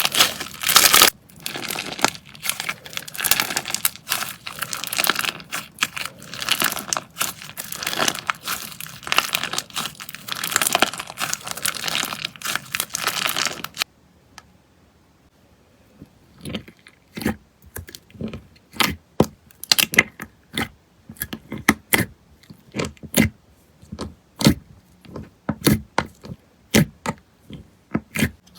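Slime being handled close up: dense crackling and crinkling for about fourteen seconds, then a sudden cut. After a short pause come separate sharp pops and clicks, roughly one or two a second.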